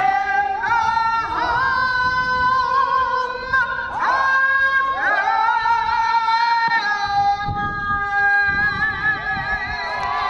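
Music with a voice singing long held notes, sliding up into several of them, over a quiet steady accompaniment.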